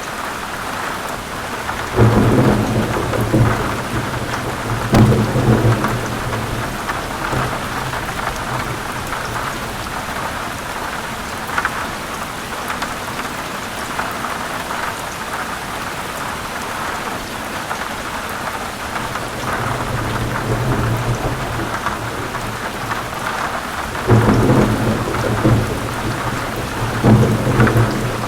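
Heavy rain falling steadily, with thunder rumbling over it several times: once about two seconds in, again around five seconds, more softly around twenty seconds, and in repeated rolls near the end.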